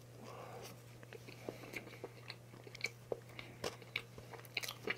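Close-miked chewing of a mouthful of chocolate cake with chocolate shavings: soft, wet mouth sounds with many small, irregular clicks and smacks.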